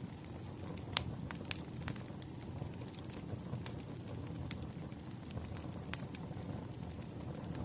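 Wood fire burning: a steady low rumble of the flames with scattered sharp crackles and pops, the loudest about a second in.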